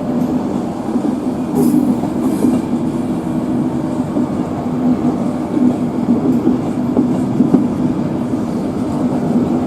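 Passenger train moving slowly along the platform with a continuous steady drone, and a brief hiss about two seconds in.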